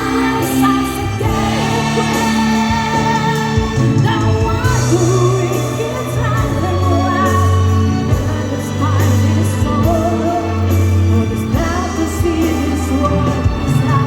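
Children's choir singing over instrumental accompaniment with steady bass notes.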